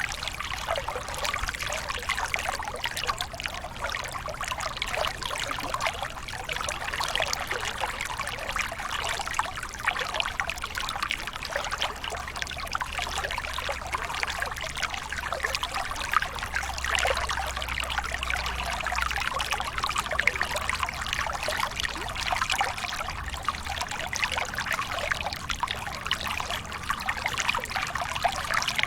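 Waterfall water running and splashing steadily, a dense, even trickle and splash with no pauses.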